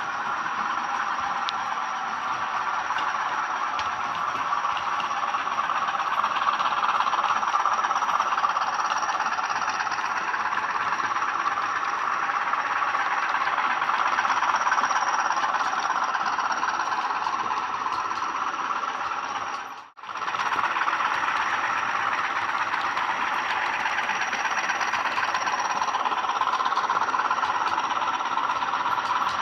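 Sound-fitted Bachmann OO gauge Class 20 model diesel locomotives running, their DCC sound decoders playing diesel engine sound through the models' small speakers; steady throughout, with one brief dropout about twenty seconds in.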